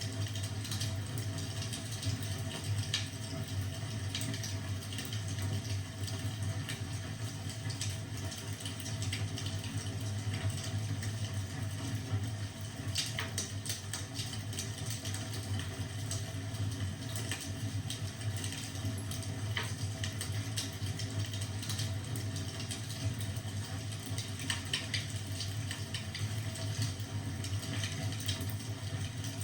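Wood fire crackling in a fireplace: a steady low rushing noise with scattered sharp pops.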